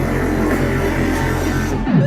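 Live electronic bass music played loud: a steady, heavy bass line under a repeating synth pattern, and near the end the treble drops out as a synth tone sweeps down into the next section.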